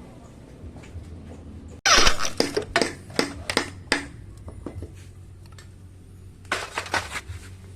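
Metal tools and parts clinking and knocking against each other in a quick series of sharp clicks: a burst starting about two seconds in and a shorter one near the end, over a low steady hum.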